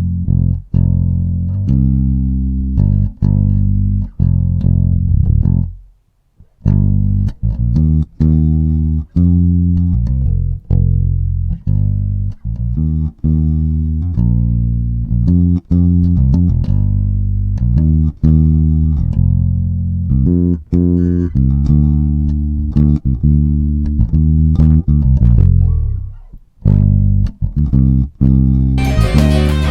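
Solo bass guitar track playing a line of plucked notes through a compressor. It drops out briefly about six seconds in and again near the end, and fuller music with guitar comes in just before the end.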